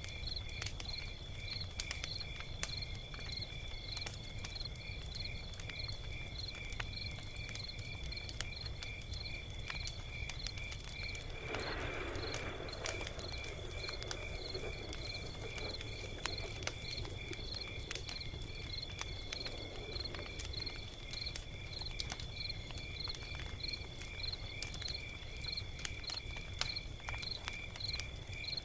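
Log fire crackling, with sharp irregular pops over a steady low rumble, while crickets chirp in a high, even, pulsing rhythm. A brief softer rushing noise rises around the middle and fades.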